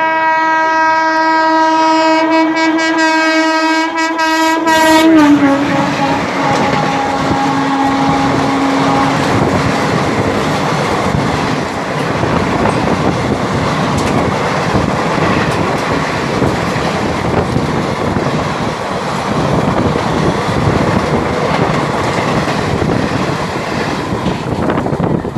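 Indian Railways WAP-4 electric locomotive sounding one long horn blast as it approaches at speed. The horn's pitch drops about five seconds in as the locomotive passes, then fades. The express coaches follow, rushing through with rail clatter.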